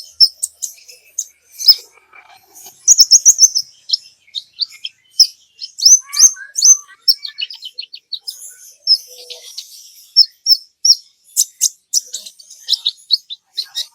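A kolibri ninja sunbird singing a fast, high-pitched song of sharp chirps and quick runs of short notes, one after another with brief pauses.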